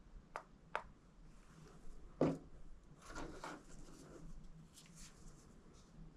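Handling sounds: two light clicks, a louder knock about two seconds in, then a second or so of scraping, with a few faint ticks near the end.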